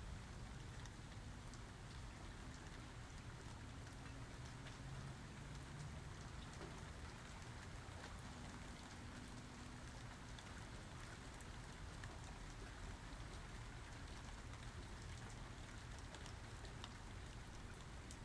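Steady rain falling, with scattered sharp drop ticks over a faint low rumble.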